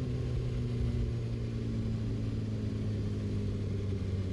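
Yamaha R6 inline-four sport bike engine running steadily at a low, even pitch that sags slightly.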